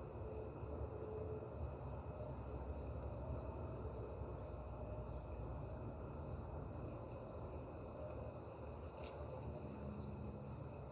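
Crickets trilling in a steady, high-pitched chorus, with a low rumble underneath.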